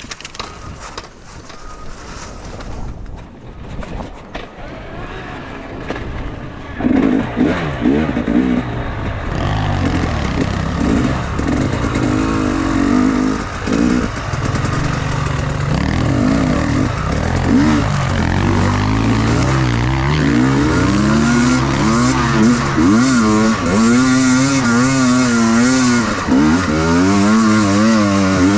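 Enduro motorcycle engine revving, its pitch rising and falling over and over as it rides. It comes in loudly about seven seconds in, after a quieter stretch of scattered knocks, and grows louder toward the end.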